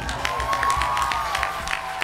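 Audience clapping and cheering just after the song stops, with scattered claps and long whooping calls from the crowd.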